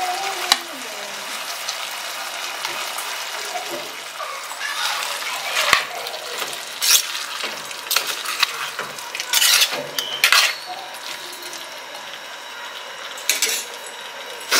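Chicken, chopped tomatoes and onions frying in a pot with a steady sizzle, while a spoon stirs them, scraping and knocking against the pot several times.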